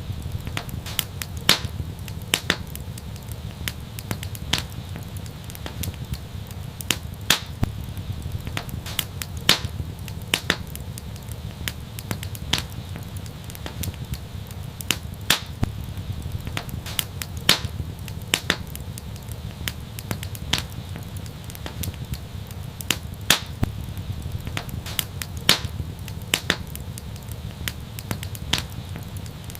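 Wood fire crackling: irregular sharp pops and snaps, a few much louder than the rest, over a steady low rumble of burning.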